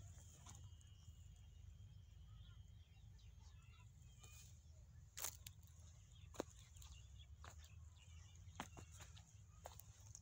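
Near silence outdoors: a steady low rumble with a few faint, sharp clicks and snaps scattered through, and a faint thin high bird note about half a second in.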